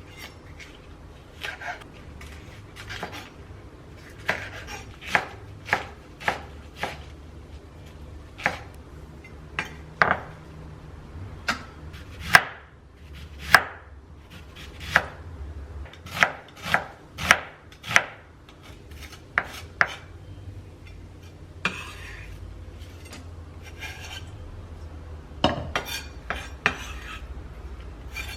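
Knife chopping food on a cutting board in separate, unhurried strokes, irregularly spaced about one a second, with a pause of several seconds before a few last strokes.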